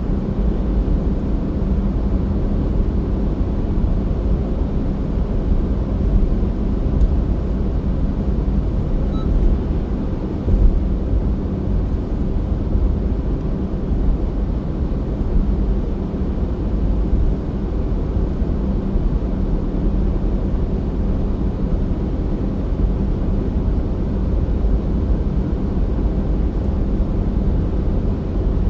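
A car driving at a steady speed: constant low rumble of tyres and engine with a steady hum, unchanging throughout.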